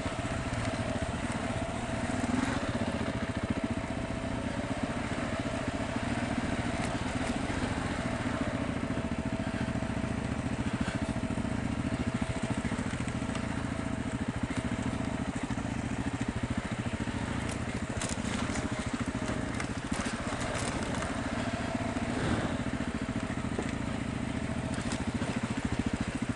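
BMW GS adventure motorcycle engine running steadily at trail speed over a rocky track, with several sharp clicks from stones and the rough ground about two-thirds of the way in.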